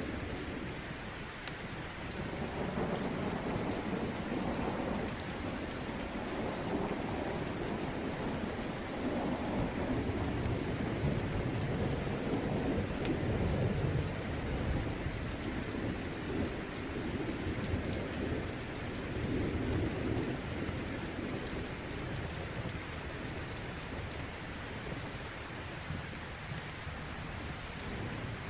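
Steady rain with thunder rumbling low and long, swelling from a couple of seconds in and dying away a little after the middle, with scattered sharp crackles of a fireplace fire.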